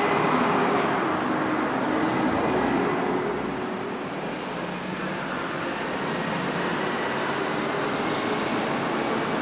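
City road traffic: a steady wash of passing vehicles and tyre noise, with engine hum early on, easing slightly after a few seconds.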